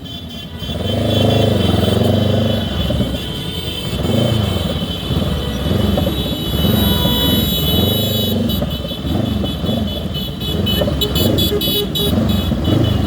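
Motorcycle engines running in traffic, their pitch rising and falling over and over as they rev and ease off.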